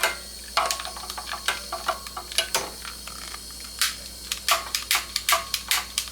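Bix burner sputtering and crackling as it is being lit, with irregular sharp pops several times a second over a faint hiss.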